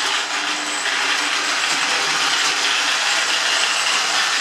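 1963 Lionel Scout toy train running on its track: the locomotive's motor and gearing give a steady mechanical whir.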